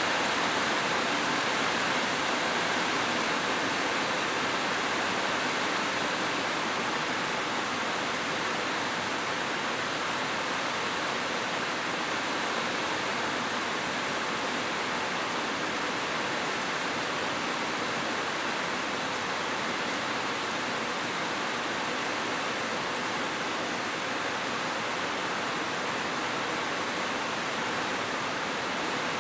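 Heavy rain falling as a steady, unbroken hiss.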